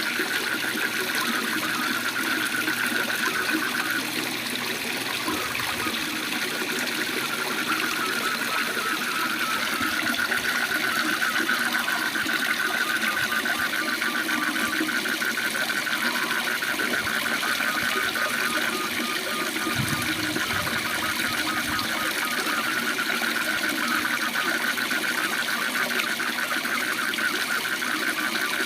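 Waterfall with a steady rush of falling water, over which frogs keep up a fast, continuous pulsing trill.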